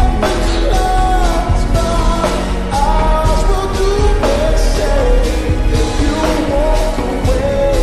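Slowed-down pop song: a sung male vocal over a band accompaniment with a steady beat.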